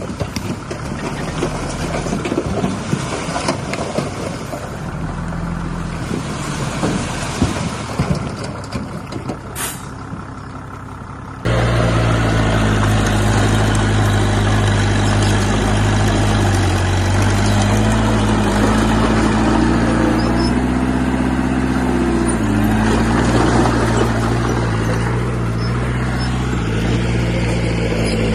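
Heavy diesel construction machinery at work. First comes a rattling stretch with many knocks and a short sharp hiss a little before halfway. About 11 seconds in it changes abruptly to a loud, steady diesel engine drone whose pitch rises and falls slightly.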